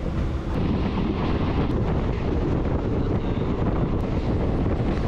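Steady rush of a moving local passenger train: the train's running noise, with wind buffeting the microphone at the coach's open door.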